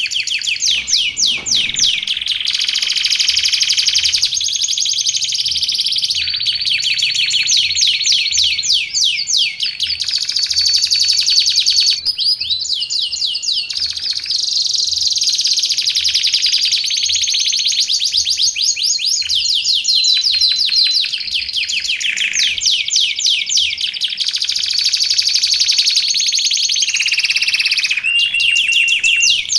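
Canary singing continuously in long rolling phrases: fast trills of rapidly repeated notes alternating with held high whistled notes, the phrase changing every second or two.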